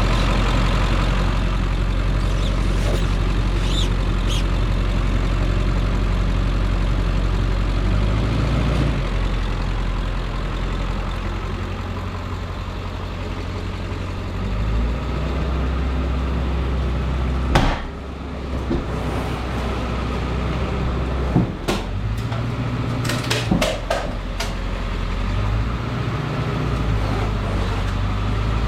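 A vehicle engine idling, its speed stepping up and down several times, with a few sharp metallic knocks in the second half.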